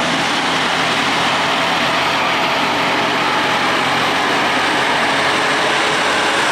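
Heavy haulage trucks running steadily under way, a constant rush of engine and road noise with a faint low engine hum.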